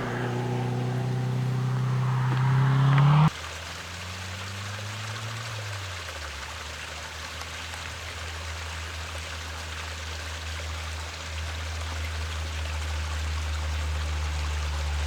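Turbocharged Nissan Pulsar ET hatchback engine pulling hard, its note rising slightly, then cut off abruptly about three seconds in. A low steady engine drone with a hiss follows, with a lower note falling away around six seconds in.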